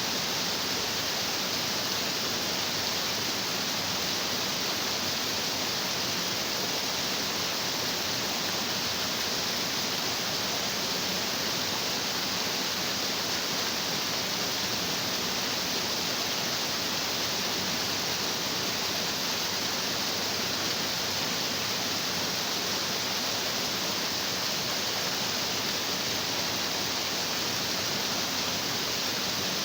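Stream water rushing and splashing over rocks, a steady, unbroken hiss of flowing water.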